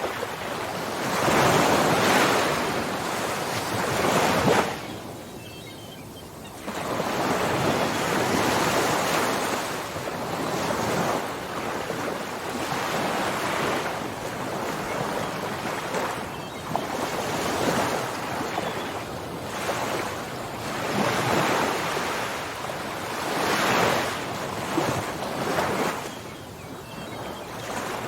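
Ocean surf: waves breaking and washing in, one after another. A loud break in the first few seconds drops off sharply, then a long surge follows with smaller swells. Wind buffets the microphone.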